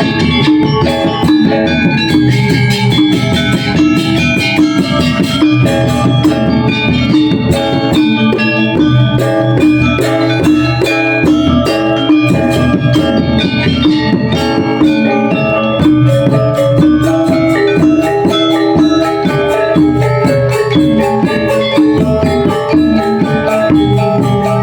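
Balinese gong kebyar gamelan playing a tabuh alus: bronze metallophones and gongs struck in dense, rapid runs of ringing notes over a steady low gong and drum bed.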